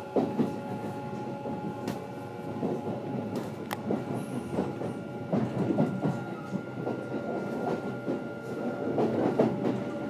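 Onboard sound inside a Kintetsu Series 21 electric commuter train: a steady hum with several held tones from the train's equipment over an irregular low rumble with scattered knocks, with no motor pitch rising or falling.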